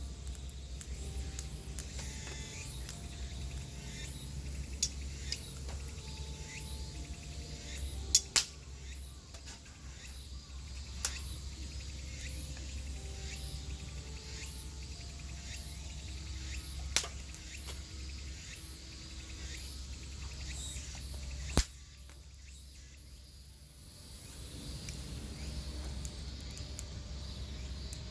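Wood fire crackling in a campfire pit, with scattered clicks and a few sharper pops, over a steady low hum and faint high insect chirping.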